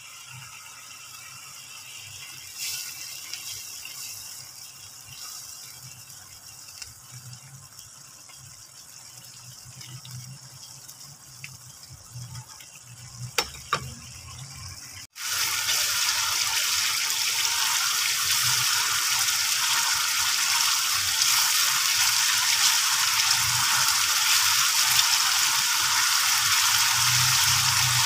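Blended chili paste for sambal bubbling gently in a frying pan, with a few small clicks. About halfway through it gives way to a much louder, steady sizzle of the paste frying in oil.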